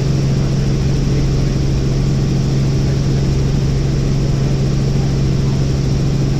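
Helicopter in flight: a steady, loud drone of engine and rotors with a strong low hum.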